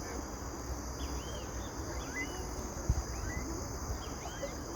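Birds calling outdoors: several short arched chirps repeating, over a steady high hiss and a low rumble. A single brief thump about three seconds in.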